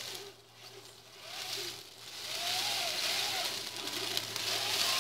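Radio-controlled truck running through mud: a thin motor whine that rises and falls with the throttle over a hiss of churning wheels, getting louder from about two seconds in.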